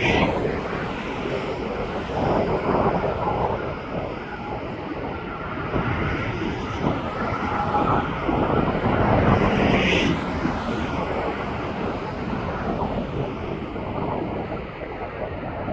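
Gusty wind buffeting the microphone over the noise of aircraft engines, rising and falling in uneven swells.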